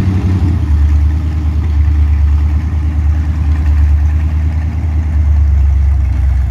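Ford 302 Windsor small-block V8 running through open, unsilenced headers, just started after sitting unrun for 12 years. About half a second in the engine note drops lower, and it then idles steadily.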